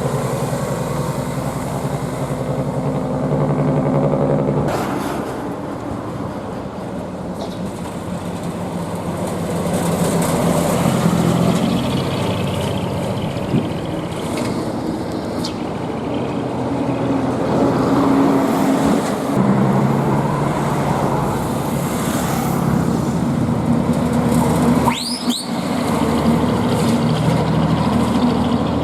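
Heavy diesel truck engine running through a manifold-cut (mani-wari) exhaust and chimney-stack muffler, rumbling steadily and changing pitch as it pulls through traffic. A brief high squeal comes near the end.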